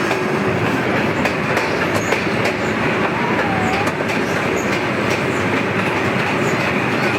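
Park tourist train running along its track, heard from aboard as a steady rumble with faint wheel clicks over the rail joints.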